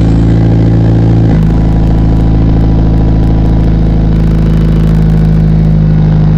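Mitsubishi Lancer Evolution IX's turbocharged 2.0-litre inline-four idling steadily just after starting. Its note shifts once, about a second and a half in, as the idle settles.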